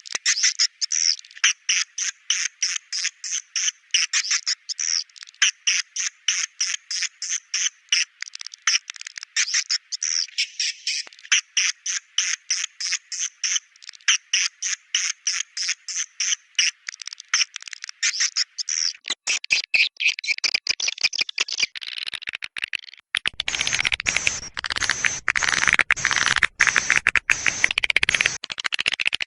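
Recorded swiftlet calls: a rapid train of high chirps, about three a second. From about 23 seconds in they give way to a denser, rattling twitter.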